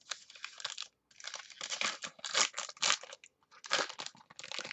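Crinkling and rustling of foil trading-card pack wrappers being handled and torn open, in irregular crackly bursts.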